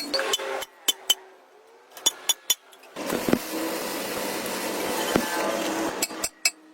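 Sharp metallic taps and clinks of tools on metal, with a stretch of steady machine noise in the middle and a quick run of taps near the end.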